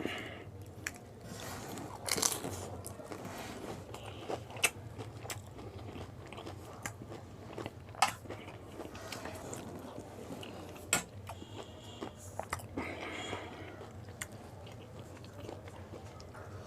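Close-up sounds of pani puri being eaten: crisp hollow puri shells cracking and crunching between the teeth, with chewing in between. Sharp cracks come at irregular intervals, the loudest about 2, 4.5, 8 and 11 seconds in.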